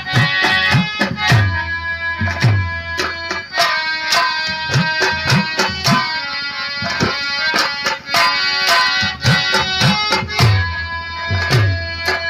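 Nautanki nagma played on instruments: a held, reedy melody in the manner of a harmonium, over fast hand drumming whose deep strokes slide down in pitch.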